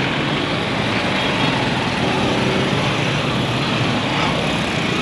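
Steady engine and road noise of traffic, with a low engine hum under it.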